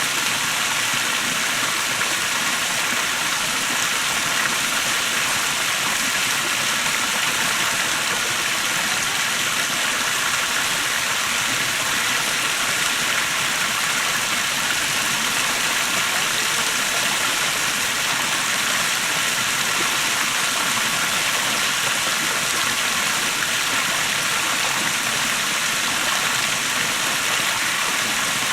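Small waterfall: water pouring and splashing with a steady, unbroken rush.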